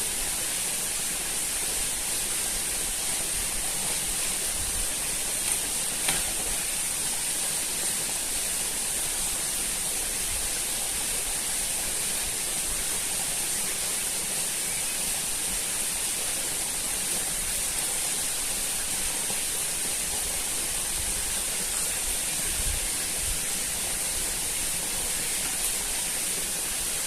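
Steady rushing noise like running water, with a constant high-pitched hiss over it.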